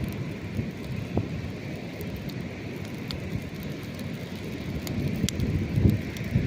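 Campfire crackling with a few sharp pops, over a low rumble of breaking waves that swells near the end.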